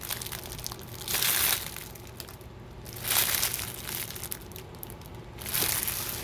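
Packaging crinkling as it is handled, in three louder rustling bursts with lighter crackles between.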